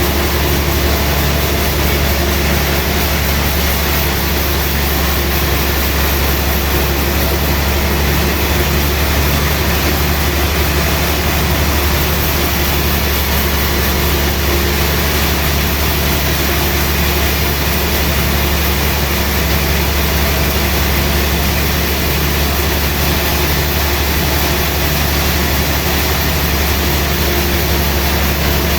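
Sawmill machinery running steadily: a heavy engine drone, unchanging.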